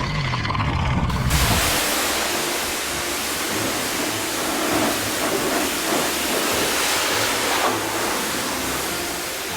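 A brief low rumble, then about a second in a steady, loud rushing hiss sets in and holds.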